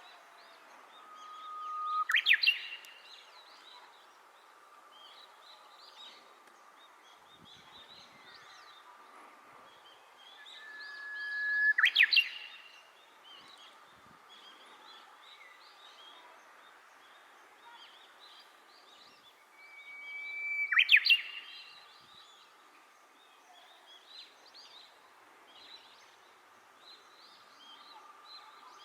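Japanese bush warbler singing its hoo-hokekyo song three times, about every nine or ten seconds. Each song is a long held whistle that swells in loudness, ending in a quick flourish.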